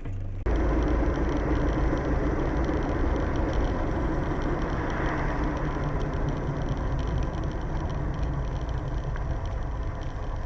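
Steady driving noise of a car on the road, engine and tyre rumble, starting suddenly about half a second in and running evenly without any impact.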